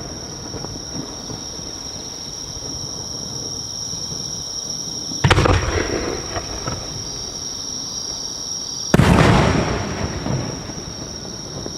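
Two booms of No. 5 aerial firework shells, about four seconds apart, each a sudden sharp bang that rolls away in a long echo.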